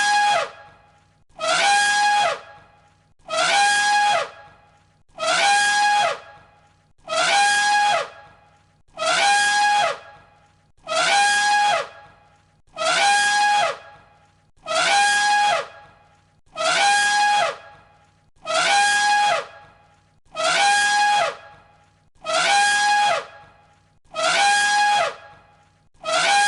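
Elephant trumpeting: one short trumpet call looped over and over, about once every two seconds. Each call is about a second long, a high held note with a pitch sliding down under it.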